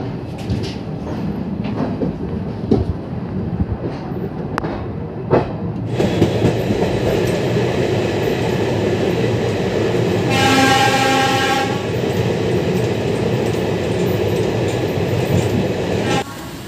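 Passenger train running at speed, heard from aboard: wheels clattering over the rail joints amid rushing noise, with a train horn sounding once for about a second and a half a little past the middle.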